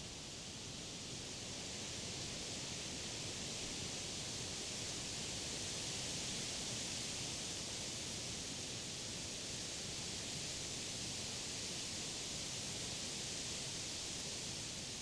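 Wind rustling through the leaves of trees and grass: a steady, even hiss that swells a little and eases again.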